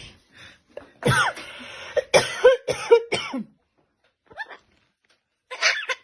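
A parrot giving a run of short calls with arching pitch, one with a longer raspy stretch about a second in. The calls stop for about two seconds in the middle and start again near the end.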